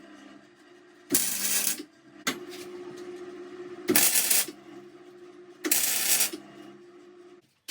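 Electric welder tack-welding brackets: three short bursts of arc crackle, each under a second, plus a brief spark-like click. Under them runs the steady hum of the welding machine, which stops near the end.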